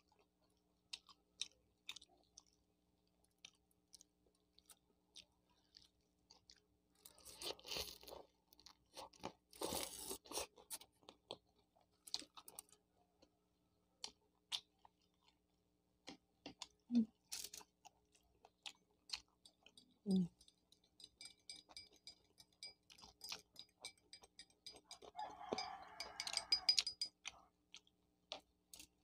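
Close-miked, quiet chewing and crunching of a crisp fried empanada, with scattered small mouth clicks and a few denser bursts of crunching. Two brief low hums come about two thirds of the way through.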